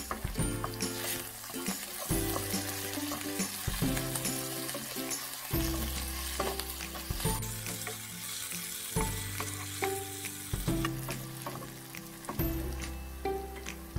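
Sliced taro root frying in oil in a nonstick pan, sizzling as a wooden spatula stirs and turns it, with small scrapes and clicks. It sits under background music with a steady beat.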